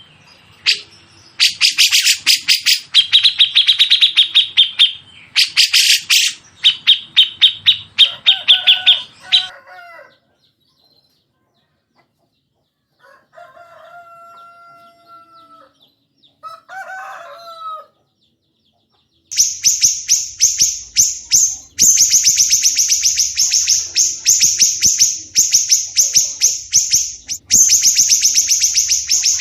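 Songbirds calling in rapid, harsh chattering runs of quick repeated chirps. The runs stop about ten seconds in, a few short, lower, slightly falling calls follow in the middle, and then a higher, faster chatter starts again and keeps going.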